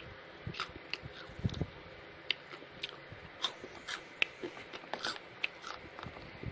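Close-miked biting and chewing of spicy elote with Flamin' Hot Cheetos: irregular sharp crunches, about two a second.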